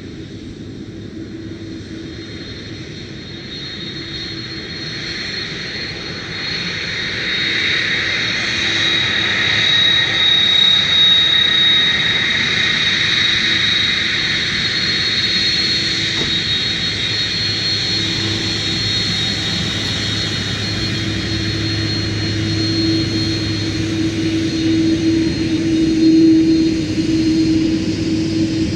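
Jet aircraft engines running, growing louder over the first ten seconds or so and then holding, with a steady high whine over the engine noise.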